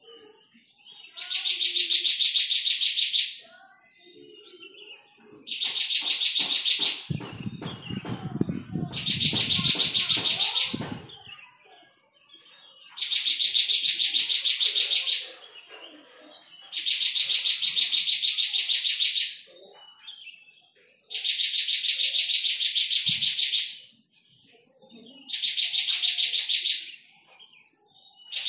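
Bar-winged prinia (ciblek) calling: seven loud bouts of rapid, high-pitched trilling, each two to three seconds long and repeating about every four seconds. From about a quarter to a third of the way in, a few seconds of low rumbling and clicking sound under the calls.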